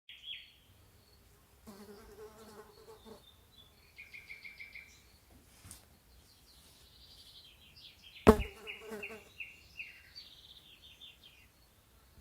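Nighttime ambience of insects and birds: repeated pulsed trills and chirps overlapping one another, with a single sharp click about eight seconds in, the loudest sound.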